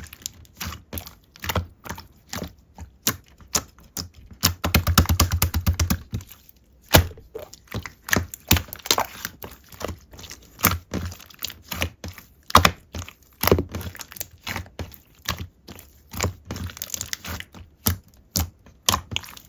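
Clear slime being squished and poked, making irregular sticky clicks and pops, with a fast rattling run of clicks about five seconds in.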